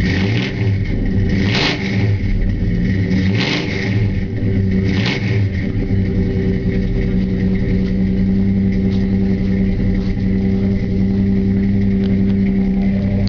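1966 Ford Falcon's 200 cubic inch inline six running through split Hooker headers and dual exhaust with 40 series Flowmaster mufflers. It surges briefly three times in the first five seconds, then settles into a steady idle.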